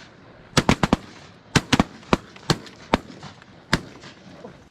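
Shotgun volley from several waterfowl hunters. A quick cluster of three shots comes a little over half a second in, then single shots follow roughly every half second, the last a little under four seconds in.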